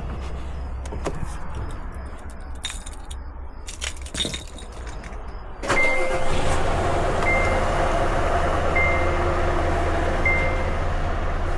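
Scania S truck's diesel engine running at idle with a low, steady rumble and a few clicks and knocks. About six seconds in it gets suddenly louder, and a high electronic beep starts repeating about every second and a half.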